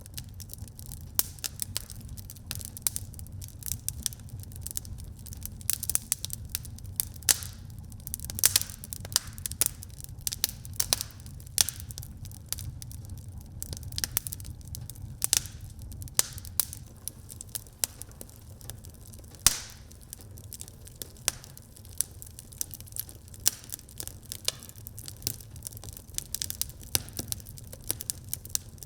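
Wood fire burning in a fireplace, crackling and popping irregularly over a steady low rumble. One pop about two-thirds of the way through is louder than the rest.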